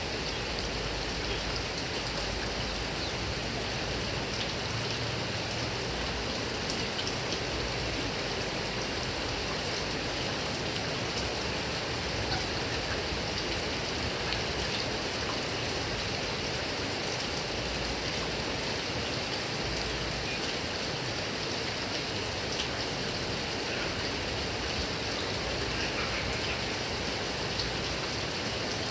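Heavy rain falling steadily on grass and palm trees, an even hiss with scattered drop patter.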